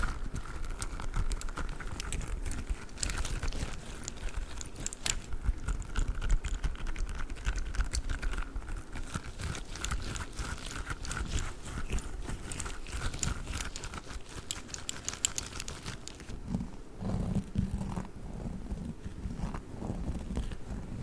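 A squishy durian toy handled close to the microphone, giving a dense run of quick crinkly, crackly clicks; about sixteen seconds in the sound turns duller and lower.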